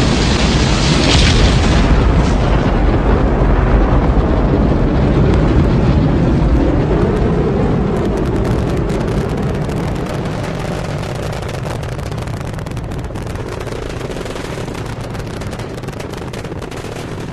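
Rocket launch: a deep, loud rumble of rocket engines with a rapid crackle, slowly fading over the second half as the rocket climbs away.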